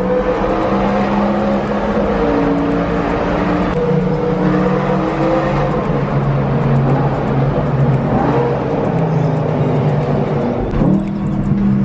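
Car engine running while driving, holding steady revs that step up and down, with a couple of short rises in revs near the end.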